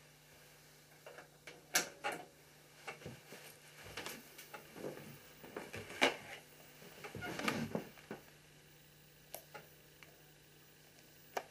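Irregular clicks, knocks and rustling from objects being handled, over a faint steady hum.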